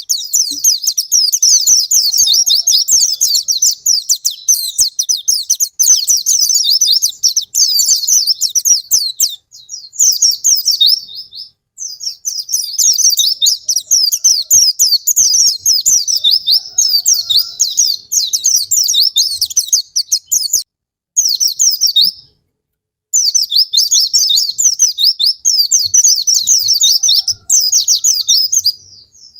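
Pleci (white-eye, Zosterops) singing a loud, fast, high-pitched twittering song in long unbroken runs, with a few brief pauses. It is a lure song used to trigger sluggish white-eyes into singing.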